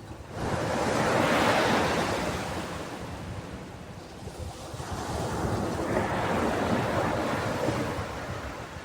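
Ocean waves breaking on a beach: two waves in turn, each a swelling rush of surf that peaks and then draws back.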